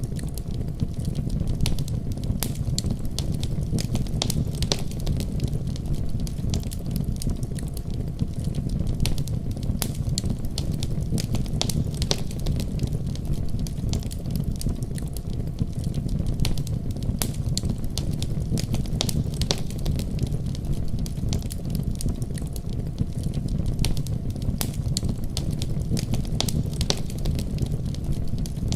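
Wood fire burning in a fireplace: a steady low rumble of flames with frequent sharp pops and crackles scattered throughout.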